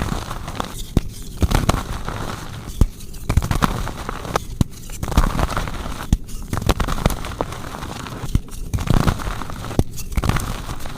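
Blocks of soft gym chalk being crushed and crumbled, with dense crackling and crunching in repeated squeezes broken by short pauses about every one and a half to two seconds.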